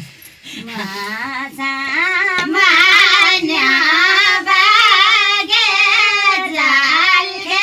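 A high-pitched voice singing one long, ornamented phrase, unaccompanied, with the pitch wavering and sliding throughout. It swells about two and a half seconds in, stays loud, and cuts off abruptly just after the end.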